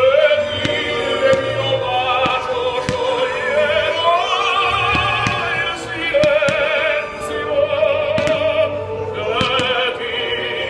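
Operatic singing with heavy vibrato over classical orchestral music, with long held notes. Short sharp pops are scattered through it.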